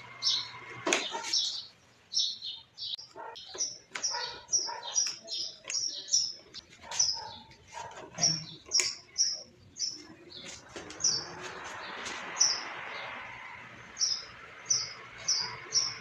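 A small bird chirping over and over: short high chirps, one or two a second, with a few knocks from handling in the first few seconds.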